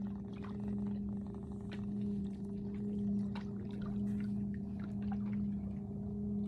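A steady low-pitched hum holding one pitch, with scattered faint clicks over it.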